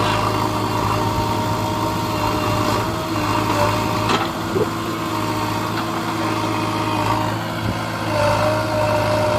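Heavy diesel engine running steadily at a constant speed with a deep, even hum.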